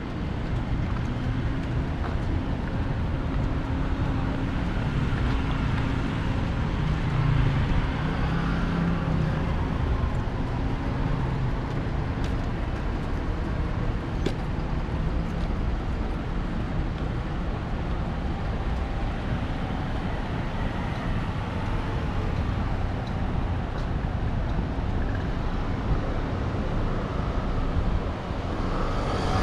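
City street traffic: passing cars and other motor vehicles. Their engine hum is strongest in the first ten seconds or so, over a steady wash of road noise.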